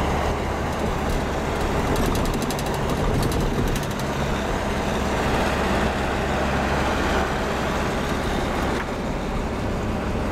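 Steady engine and tyre road noise heard from inside a car being driven.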